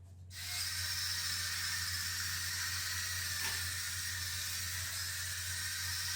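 The line-follower toy car's small electric drive motors and gears running: a steady, high whirring hiss that starts abruptly about a third of a second in.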